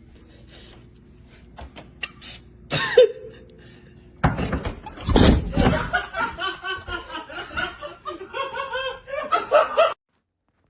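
People laughing hard in repeated bursts, starting about four seconds in after a few sharp knocks, and cutting off suddenly near the end.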